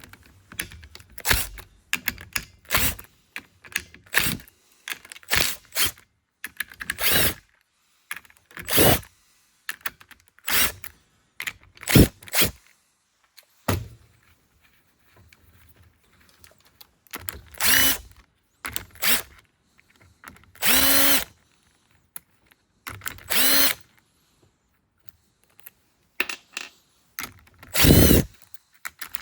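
Cordless drill-driver whirring in repeated short bursts of about a second each, with small clicks and clatter of parts between them, as fasteners are run out of the clutch of a two-stroke dirt bike engine.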